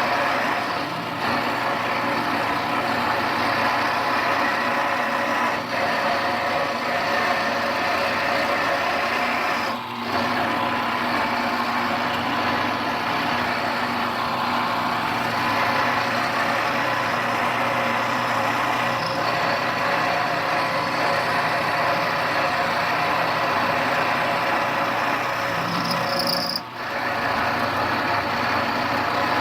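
Milling machine running with an end mill roughing out an opening in a lathe headstock: a steady motor-and-cutting whine, broken by a few brief dips, the deepest about 10 s and 27 s in.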